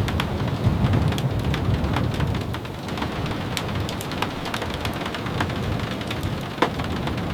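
Steady rain falling on a wooden cabin, an even hiss with scattered sharp ticks and a low rumble underneath.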